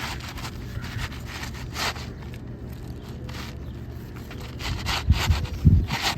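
Scraping and rustling from work on an asphalt-shingle roof, with a few dull low thumps about five to six seconds in.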